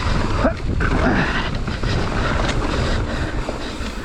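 29er mountain bike riding down a rocky trail: tyres clattering over rocks and the bike rattling, with wind buffeting the microphone.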